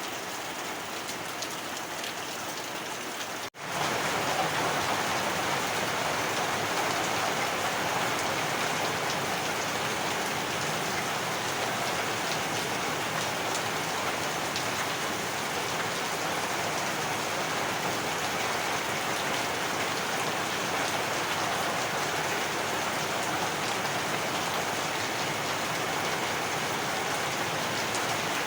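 Heavy rain falling in a steady, even hiss. About three and a half seconds in it cuts out for an instant and comes back slightly louder.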